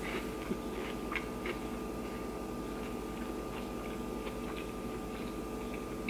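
Faint wet clicks of a person chewing a last mouthful close to the microphone, mostly in the first second or so, over a steady low background hum.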